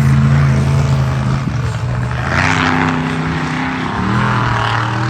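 Monster truck's big-block V8 running hard, its pitch stepping up and down as the throttle is worked, with a short burst of noise about two seconds in.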